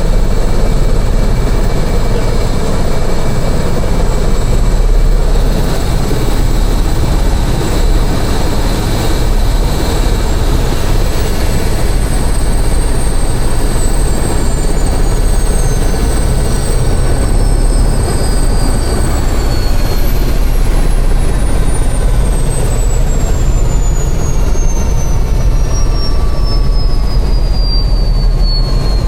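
Helicopter running in flight: a loud, steady rotor and engine drone with thin high whines above it, two of which slowly fall in pitch.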